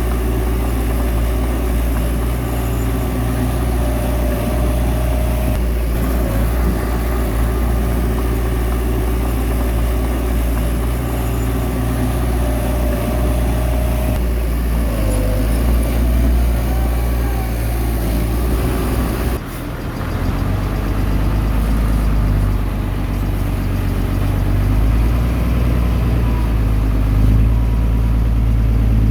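Heavy earthmoving machine engine running steadily with a deep rumble, the sound changing abruptly about two-thirds of the way through.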